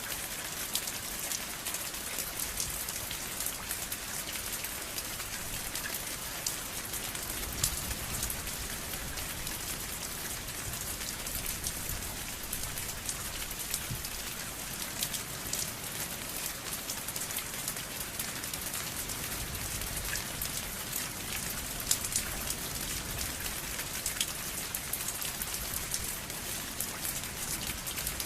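Steady rain falling, a continuous hiss dotted with many distinct drops striking a surface.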